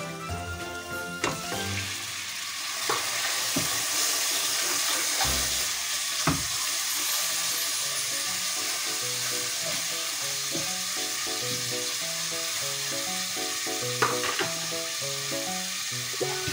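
Chicken pieces sizzling and frying in butter and onions in a hot stainless steel pot, stirred with a wooden spatula. The sizzle builds over the first few seconds and then holds steady, broken by a few sharp knocks of the spatula against the pot.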